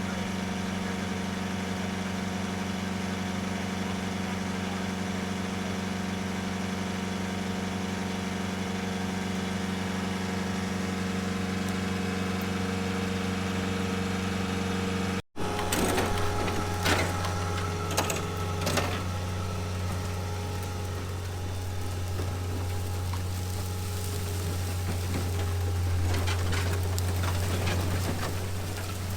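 Vehicle engine idling with a steady low hum. It cuts off abruptly about halfway through, then comes back with a few sharp knocks or clanks over the next few seconds.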